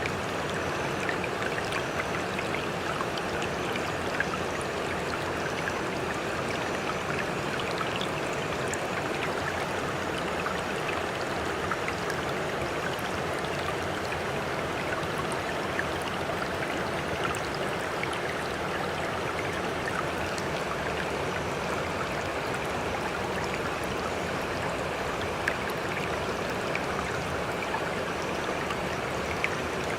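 Sea water splashing and trickling close by, a steady rush with many small droplet ticks and no rise and fall of breaking waves.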